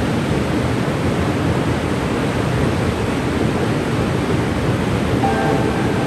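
Waterfall at Cane River Falls: a steady, unbroken rush of falling water.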